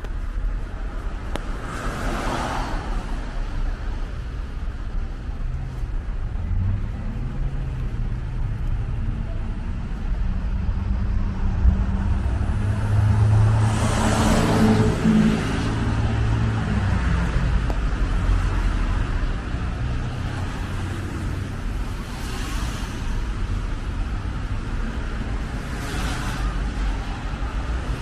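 Road traffic passing on a snowy street. A vehicle engine rumble builds and passes about halfway through with a swell of tyre hiss, and other cars swish past briefly near the start and toward the end.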